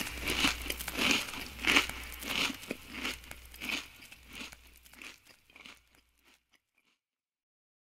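Crunchy chewing of crisp food, a crunch about every two-thirds of a second, fading out and stopping before the end.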